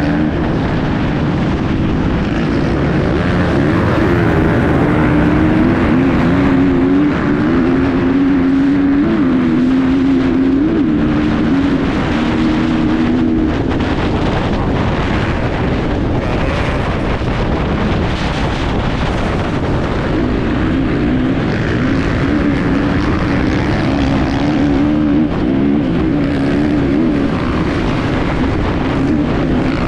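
Enduro motorcycle engine running hard on board, its pitch wavering up and down as the rider works the throttle and shifts, with heavy wind and rushing noise over the microphone.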